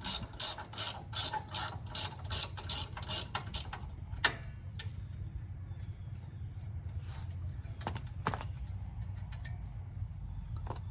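A ratchet clicking steadily, about three clicks a second, for the first few seconds, then a few scattered single clicks.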